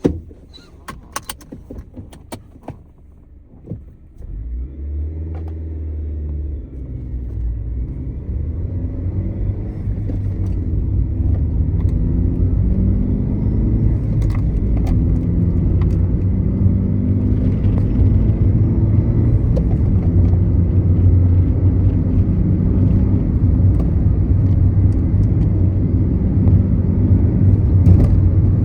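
A Honda Fit's 1.5-litre four-cylinder engine, heard from inside the cabin, pulling hard under acceleration from about four seconds in. Its pitch climbs and steps as the gears change, and the level builds to a loud, steady run. A few sharp clicks come in the first seconds. The owner fears that the engine's lingering knock and tick is rod knock.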